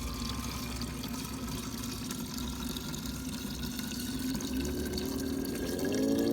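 Liquid being poured into a car's methanol-injection reservoir, a steady splashing pour with a low rumble beneath; near the end a tone rises in pitch.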